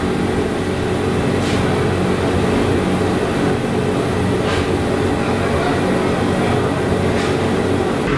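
Steady interior noise of a Vande Bharat Express electric multiple-unit coach: a constant rumble with a low hum, and a faint click now and then.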